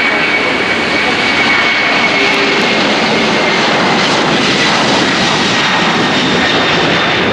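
Jet engines of a Boeing 767-300 airliner running loud: a steady rush of jet noise with a thin high whine that drifts slowly down in pitch.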